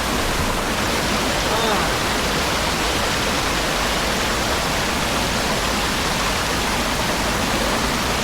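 Steady, loud rush of a waterfall pouring into a river.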